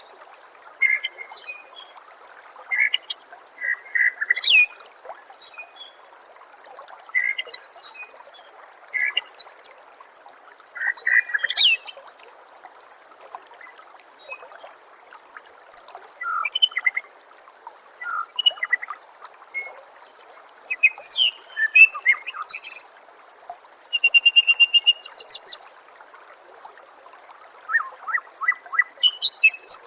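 White-rumped shama (murai batu) singing: short, varied phrases of whistles and trills every second or two, including a held whistle near the middle and a fast trill near the end. A steady trickle of running water sits underneath.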